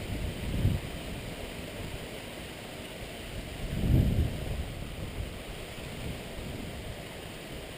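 Steady rush of rain and wind through the trees in a thunderstorm, with a brief low rumble about four seconds in.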